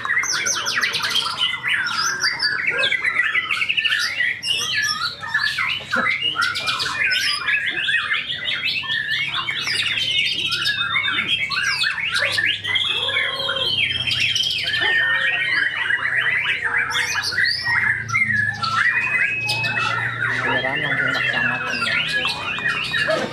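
White-rumped shama (murai batu) singing without pause: a fast, varied song of trills, whistled glides and held notes, packed with mimicked calls (isian).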